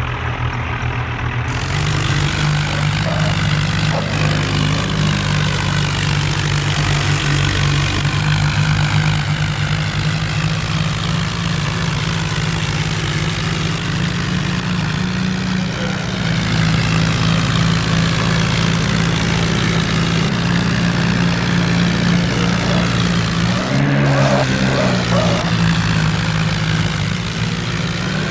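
Tractor diesel engines running hard and steadily under load, their pitch shifting slightly, with a brief dip and recovery about 24 seconds in.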